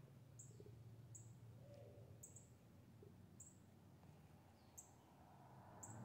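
Faint, high, short bird chirps, each dropping quickly in pitch, repeating roughly once a second over a low steady background hum.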